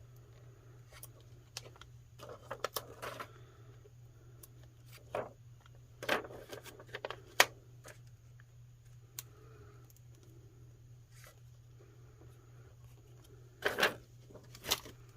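Paper and small craft pieces being handled on a work surface: scattered rustling with light clicks and taps, and a few sharper taps now and then. A steady low hum runs underneath.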